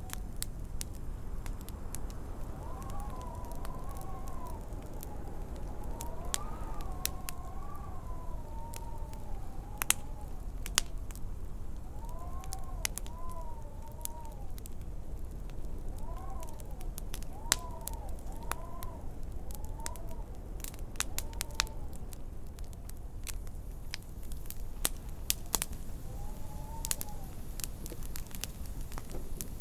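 Wood fire crackling with scattered sharp pops over a low rumble, while wind howls in wavering, rising-and-falling whistles that come and go in gusts.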